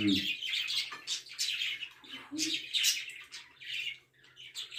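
Small birds chirping repeatedly in quick, high-pitched bursts. A brief murmur of voice comes at the start and again about two seconds in.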